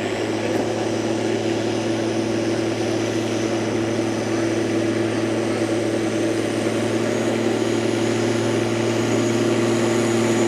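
Competition pulling vehicle's engine at full throttle, dragging a weight-transfer sled down the track; a steady, sustained pull that grows a little louder toward the end.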